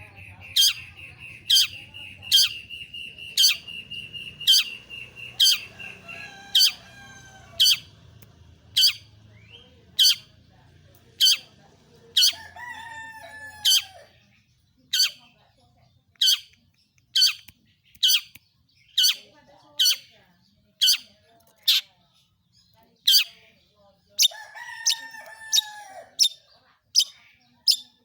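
Long-tailed shrike singing: sharp, loud 'toet' notes repeated about once a second, over a long steady high whistle during the first six seconds. Two harsh, falling calls break in, about twelve seconds in and again near the end.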